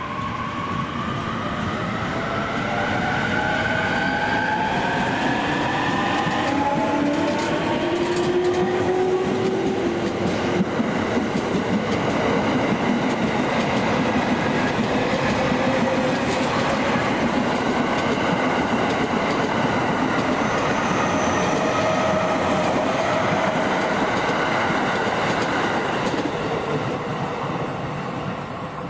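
Electric train on the Utsunomiya Line pulling away: its motor whine rises in pitch over the first several seconds as it gathers speed, then a long, steady run of wheel rumble and clickety-clack as the cars go by.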